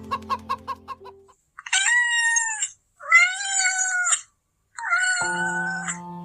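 A cat meowing: three long, drawn-out meows of about a second each, following a brief run of quick clucks in the first second.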